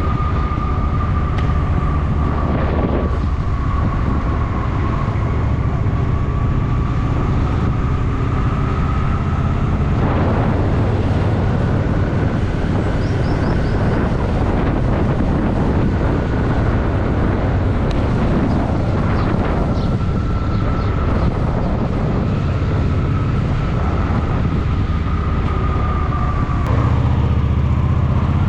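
Honda Shadow VT750's V-twin engine running while riding through town, with wind and road noise and a thin steady high whine over it; it gets louder near the end.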